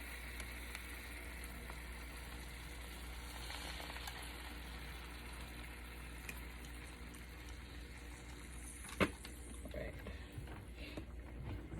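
Marinated chicken-thigh skewers sizzling steadily in hot oil, with marinade juice just poured over them. A single sharp click about nine seconds in.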